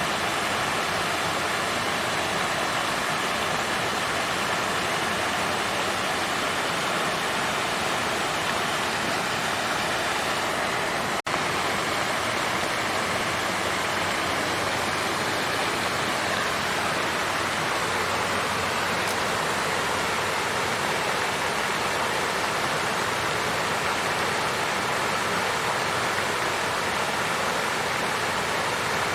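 Water fountain flowing in a continuous, even rush of water, with a split-second dropout about eleven seconds in.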